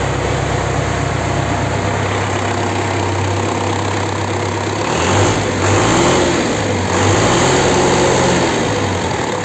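Engine idling steadily on its first run after a repair, with oil pressure up. About five seconds in it is revved up twice, briefly, each time falling back to idle.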